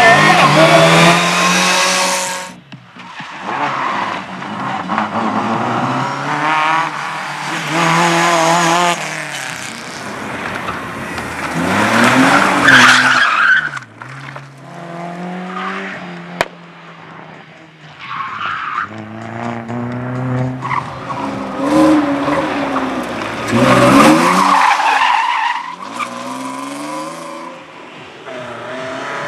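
Competition car on a slalom course, its engine revving up and dropping back again and again through short bursts of acceleration and braking, with tyres squealing and skidding in the turns. It gets loudest at the start, about twelve seconds in and about twenty-four seconds in, as it comes close.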